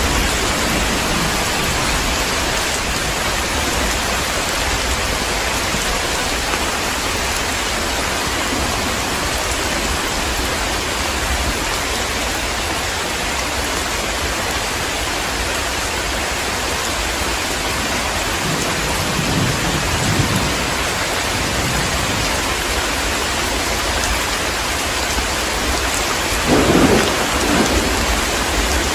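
Heavy rain falling steadily, with a low rumble of thunder about two-thirds of the way through and a louder thunder rumble near the end.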